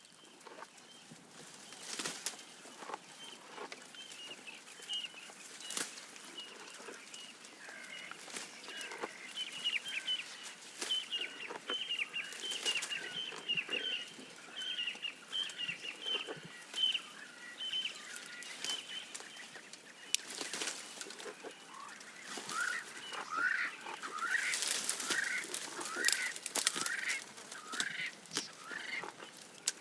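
Birds calling in quick repeated chirps, first a long run of high notes and then a series of rising calls near the end. Under the calls are scattered sharp snaps and crunches from a giraffe browsing leaves.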